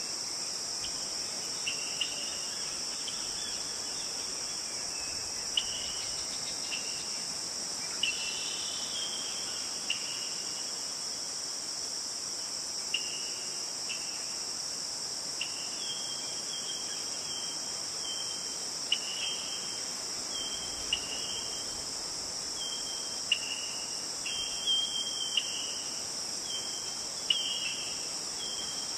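Steady, high-pitched chorus of crickets or other insects, with short bird chirps breaking in every second or two, coming more often in the second half.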